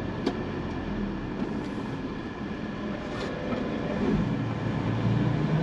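Semi truck's diesel engine idling, heard from inside the cab: a steady low rumble that grows a little louder in the second half.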